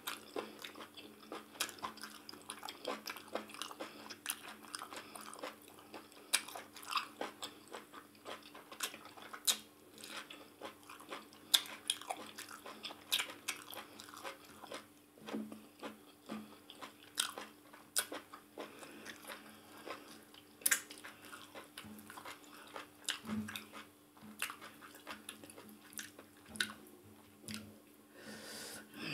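Wet chewing of a mouthful of maize fufu with ogbono soup, with many short, sharp lip smacks and mouth clicks.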